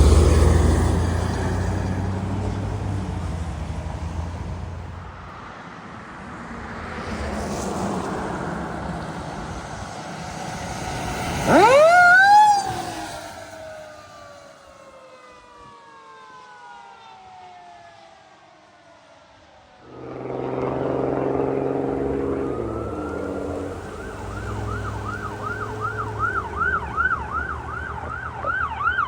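Fire apparatus passing on a response, engine running loudly, then fading. About twelve seconds in, a siren winds up sharply and then coasts down in a long falling wail. After a cut, another rig's engine is heard, and from about four seconds later an electronic siren yelps in a fast, steady warble.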